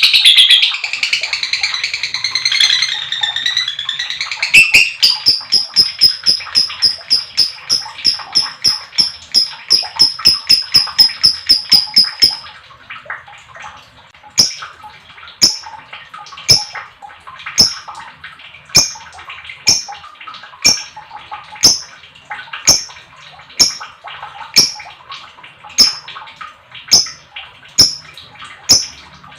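Lovebird calling: a long, rapid chattering trill over the first few seconds gives way to a fast run of sharp, high chirps, about four a second. These stop about twelve seconds in, and single sharp chirps follow about once a second over faint background chatter.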